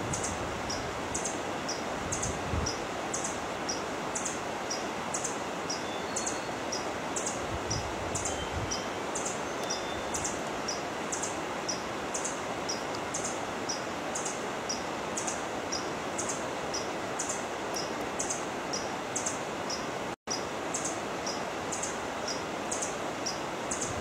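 A small bird chirping over and over in a steady rhythm: short high chirps about once a second, with fainter ones in between, over a steady hiss. The sound cuts out for an instant about twenty seconds in.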